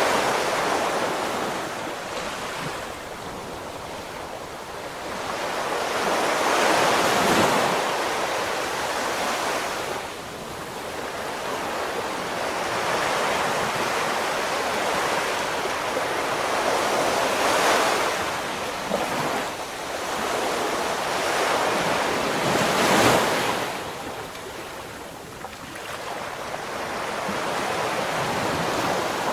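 Ocean waves breaking and washing on the shore, swelling and ebbing every several seconds, with the strongest surges about a quarter and three-quarters of the way through. Wind rumbles on the microphone at times.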